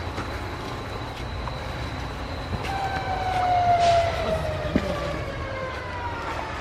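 Rumble of a passing vehicle, with a whining tone that appears about three seconds in and falls slowly in pitch as it goes by.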